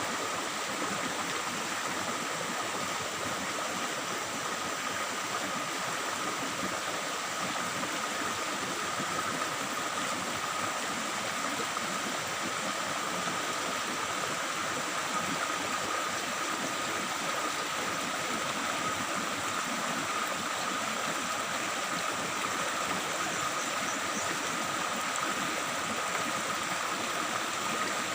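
Forest stream babbling and splashing steadily over rocks. A thin, steady high tone runs alongside the water.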